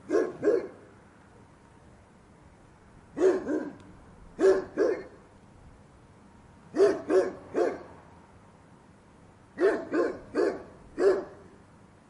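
Rottweiler barking in runs of two to four barks, with a pause of one to two seconds between runs.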